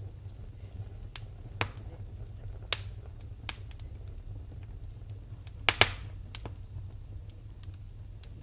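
Wood fire burning in a fireplace, crackling with sharp pops every second or so over a low steady rumble. The loudest is a quick double pop about two-thirds of the way in.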